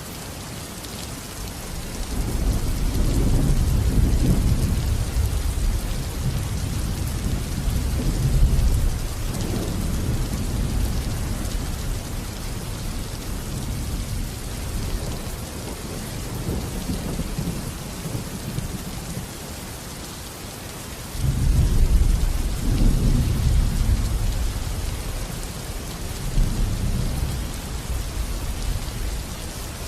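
Steady rain with two long rolls of thunder, deep rumbles that swell and fade. The first begins about two seconds in and lasts some eight seconds; the second starts suddenly about two-thirds of the way through.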